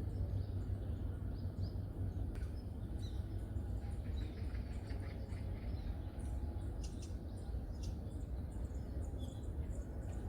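Small birds chirping in short, scattered calls in a forest, over a steady low rumble.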